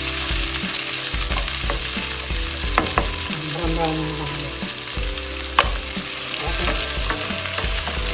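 Chopped onions sizzling in olive oil in a frying pan while a spoon stirs and scrapes them, with a few sharp taps of the spoon against the pan.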